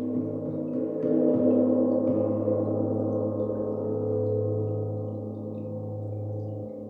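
Large metal sound-healing instrument ringing with many sustained overtones. It is struck softly near the start and again about one and two seconds in, then the sound swells and slowly dies away.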